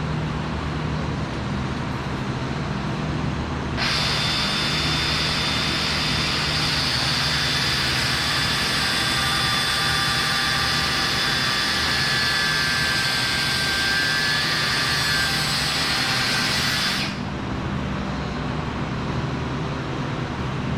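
A hissing power tool starts suddenly about four seconds in, runs steadily for about thirteen seconds and cuts off sharply, over a steady low hum.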